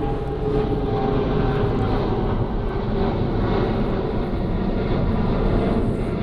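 Jet aircraft engines: a steady, loud rush with a faint tone that slowly falls in pitch as the plane passes.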